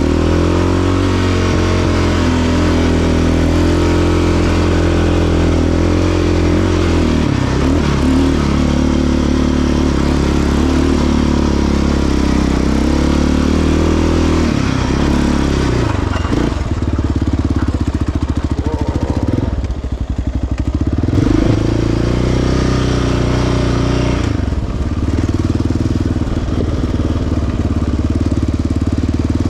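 Single-cylinder four-stroke sport quad engine running on a trail, its pitch rising as the throttle opens and then rising and falling with repeated throttle changes, with brief letups near the middle and again a few seconds later.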